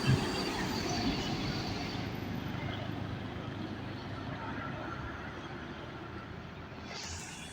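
Vehicle noise fading away after a passing, a steady rumble and hiss that slowly grows quieter, with a hiss rising right at the end.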